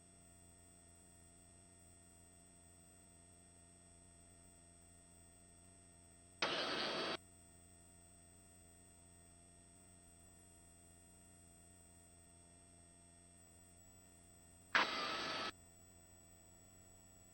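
Helicopter headset intercom feed: a faint steady electrical hum, broken twice by a short burst of hiss, about eight seconds apart, each cutting in and out abruptly as a microphone channel opens and closes.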